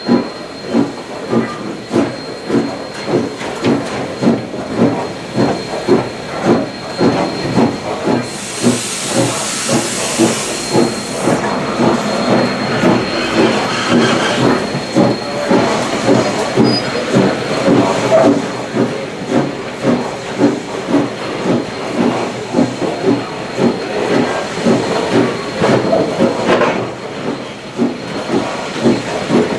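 Valley Railroad Mikado No. 40, a 2-8-2 steam locomotive, working with a steady rhythm of exhaust chuffs. A burst of steam hiss comes about eight seconds in and lasts a few seconds.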